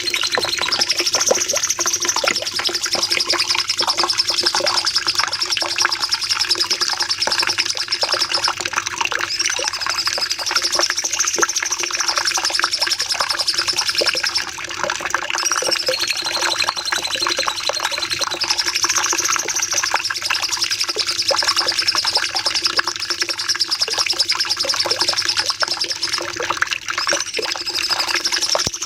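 A cucak cungkok songbird singing a long, nearly unbroken 'nembak' song: a dense stream of rapid, high-pitched notes that sweep up and down, with a brief dip about halfway.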